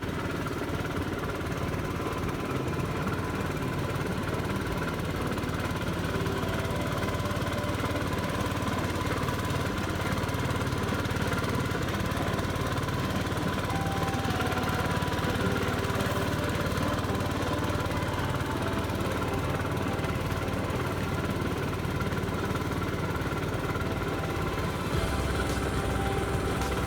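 A small boat engine running steadily at an even speed, with a constant low hum.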